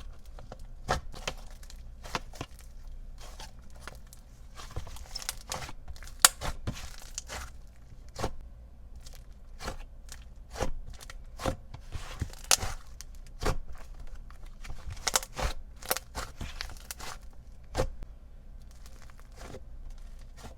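Clay slime being handled by hand: stretched, pressed and poked, giving irregular sharp pops, clicks and crackles as it tears and folds.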